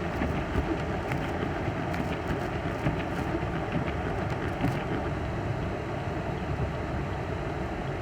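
Strong blizzard wind blowing steadily, a dense rushing noise heavy in the low end, with small ticks scattered through it.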